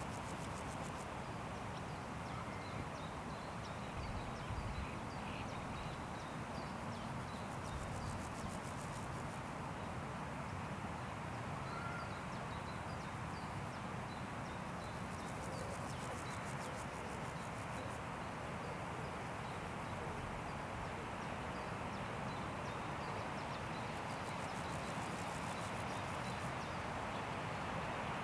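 Steady wind rushing through forest trees, with scattered small bird chirps and bursts of very high, rapid insect buzzing that come and go every several seconds.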